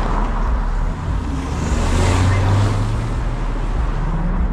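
A car engine and exhaust rumbling, swelling to its loudest about halfway through, then easing off.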